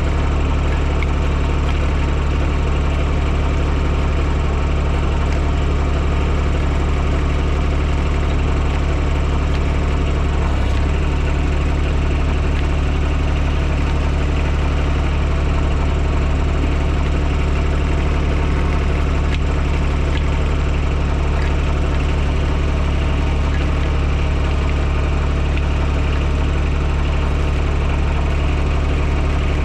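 TYM T224 subcompact tractor's diesel engine idling steadily, with an even low hum and no change in speed.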